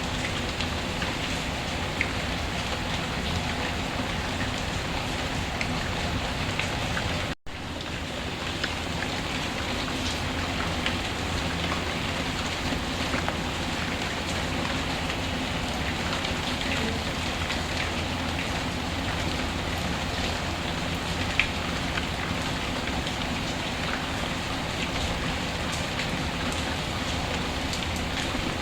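Steady rainfall mixed with a wood fire crackling, scattered small pops over the even hiss of the rain, one sharper pop about two-thirds of the way through. The sound cuts out completely for an instant about seven seconds in.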